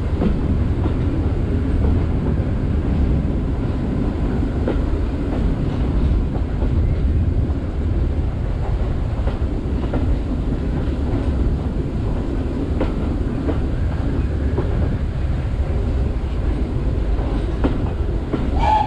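Heritage railway carriage running along the line, heard from on board: a steady low rumble with faint clicks of the wheels over rail joints. A brief high tone sounds near the end.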